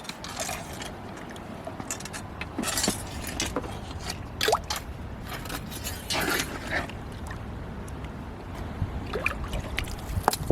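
Shallow seawater splashing and trickling among rocks, with scattered knocks and scrapes over a low, steady rumble.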